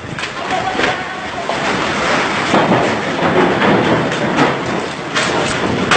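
Strong gusty wind buffeting the microphone, with scattered short knocks and rattles.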